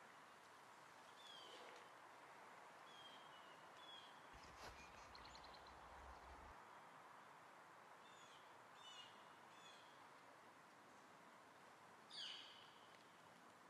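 Faint short bird chirps repeating over a steady background hiss, with one louder call sweeping downward about twelve seconds in and a single click about four and a half seconds in.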